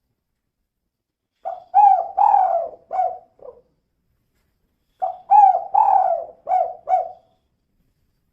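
Female spotted dove (tekukur) cooing: two phrases of about five short coos each, a second or so apart.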